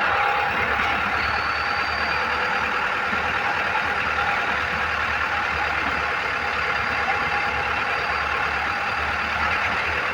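A vehicle running steadily, with an even hiss and a few unchanging tones.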